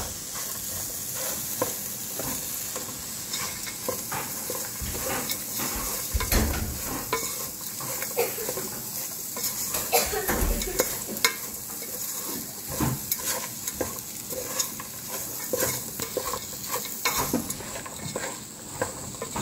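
Chopped vegetables, peanuts and spices sizzling in hot oil in a pot, stirred with a wooden spatula that scrapes and taps irregularly against the pot.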